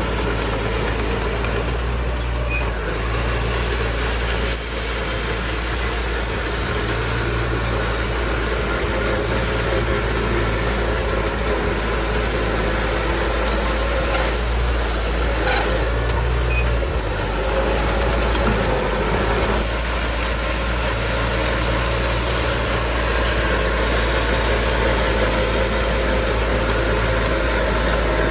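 Heavy diesel earthmoving machinery running steadily, a low engine rumble that swells and eases, with one sharp click about four and a half seconds in.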